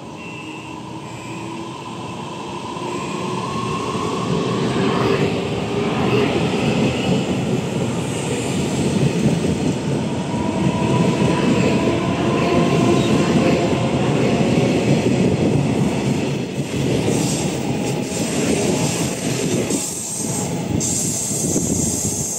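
Taiwan Railways electric train running past on the rails, growing louder over the first six seconds and then staying loud, with a whine that slowly rises in pitch over the rumble of the wheels.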